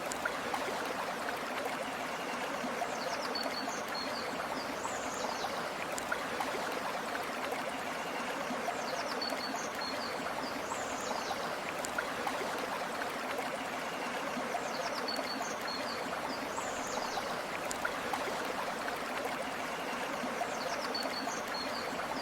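A river flowing steadily with an even rush of water. Over it, a bird gives short, high, downward-sweeping chirps in pairs about every six seconds.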